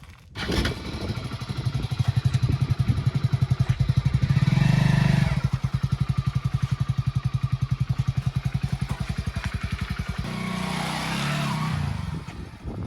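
Heavy diesel engine of earthmoving or farm machinery running close by with an even, rapid pulse, working harder for a moment about four seconds in and changing note near the ten-second mark.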